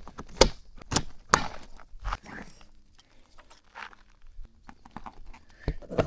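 Handling noises from rigging an inflatable kayak: a few sharp clicks and knocks in the first second and a half, then softer knocks and rustling.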